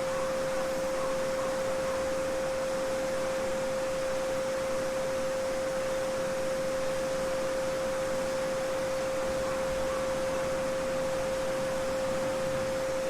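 Steady pure 528 Hz sine tone (a Solfeggio frequency) sounding unbroken over the soft, even babble of a small stream.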